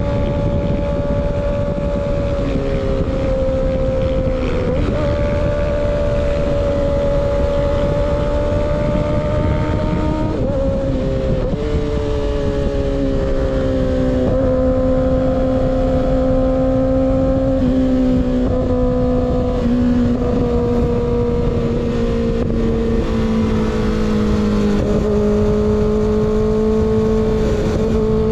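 Kawasaki ZX-6R inline-four running through a baffle-less M4 GP19 slip-on exhaust, ridden at a steady cruise. The engine note shifts in steps a few times and sinks slowly in pitch over the second half, with wind rushing underneath.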